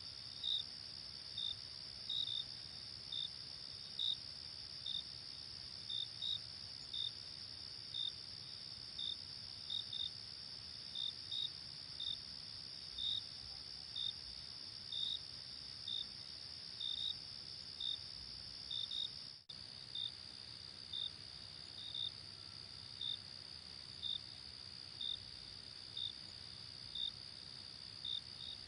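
Night insect chorus: a steady high-pitched trill, with a cricket chirping about once a second over it. There is a brief dip about two-thirds of the way through, after which the trill sits slightly lower in pitch.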